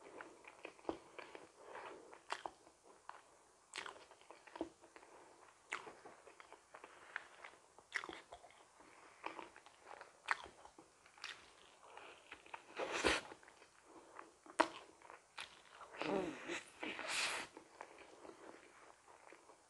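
Close-miked eating of cream-filled donuts: chewing with wet mouth clicks and smacks at an irregular pace. A louder crackly stretch comes about two-thirds of the way in and another shortly before the end.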